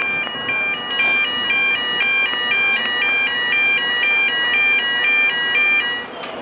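Train door-closing warning: an electronic two-tone alarm alternating high and low about four times a second, cutting off about six seconds in.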